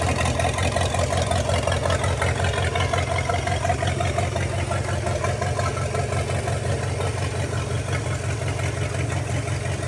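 1956 Chevrolet 265 small-block V8 idling steadily on its carburetor: a formerly non-running engine, now running and sounding pretty good.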